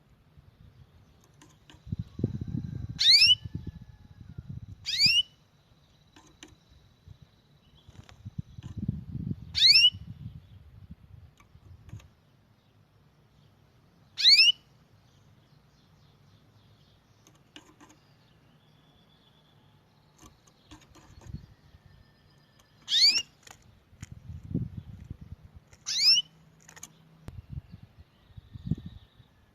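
A songbird giving single sharp, rising whistled calls, six in all, spaced a few seconds apart. Bursts of low rumble come between them.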